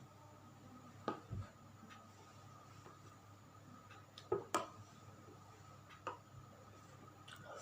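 Eating sounds: scattered short clicks and smacks from chewing and handling fried tempeh, the loudest pair about four and a half seconds in.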